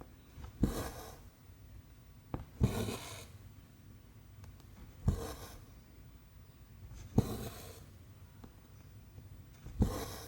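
Needle pushed through 14-count cross-stitch fabric and cotton thread drawn through after it: a sharp tick followed by a short swish, five times, about every two seconds.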